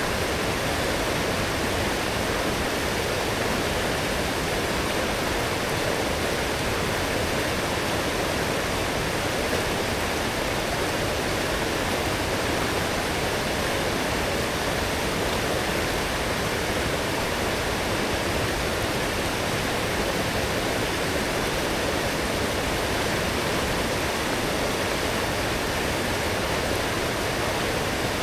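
Fast-flowing forest stream running high after heavy rain: a steady, unbroken rush of water.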